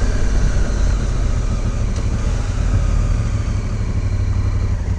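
Honda Africa Twin parallel-twin motorcycle engine running steadily while riding.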